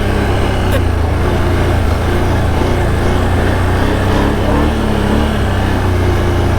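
Can-Am Outlander ATV engine running steadily at an even speed, with one brief click about a second in.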